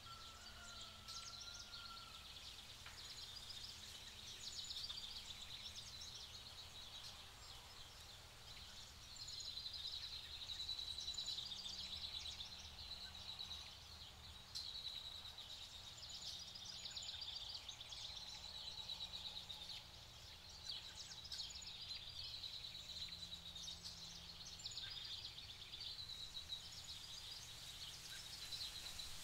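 Faint outdoor ambience: small birds give repeated high, trilling phrases every few seconds, with a short whistled note near the start. A low steady hum runs underneath.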